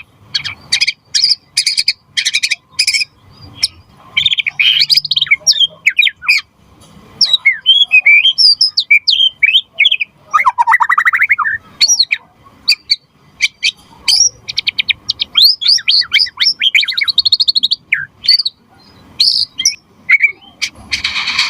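White-rumped shama (murai batu) in full, vigorous song. It mixes fast runs of sharp repeated notes and trills with slurred rising and falling whistles, and a long sweeping phrase about halfway through.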